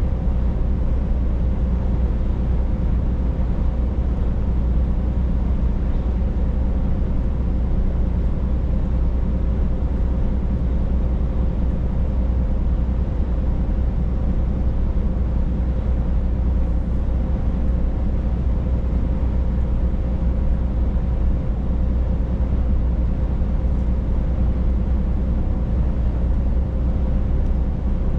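Scania truck driving at a steady speed, its diesel engine running with an unchanging low drone along with road noise.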